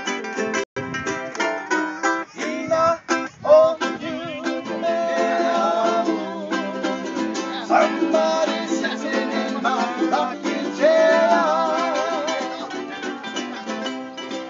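Hawaiian music on strummed ukulele with guitar. From a few seconds in, a sustained melody with a strong vibrato rides above the strumming.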